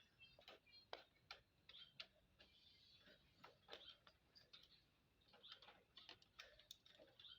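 Faint, irregular clicking and ticking of an Indian ringneck parrot's beak working at its food.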